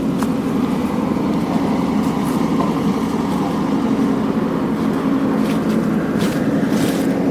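Heavy diesel road-paving machinery running steadily, a continuous low engine rumble, with a few short sharp clicks in the second half.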